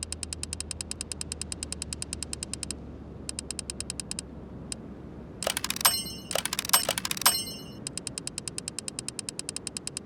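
Even mechanical ticking at about seven strokes a second. It breaks off twice, and then a handful of sharp metallic clinks ring out before the ticking resumes near the end.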